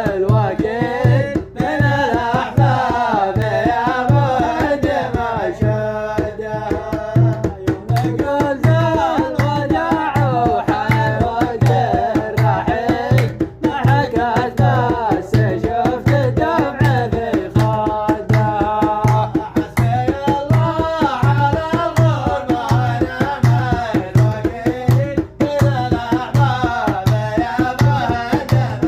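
Arabic song: a voice singing a wavering, ornamented melody over a steady low hand-drum beat.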